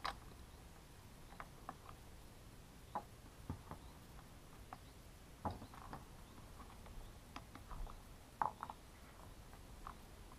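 Scattered light clicks and taps of small hand tools and plastic and metal chainsaw parts being handled during disassembly of a Husqvarna T435 top-handle chainsaw, the sharpest tap about eight and a half seconds in.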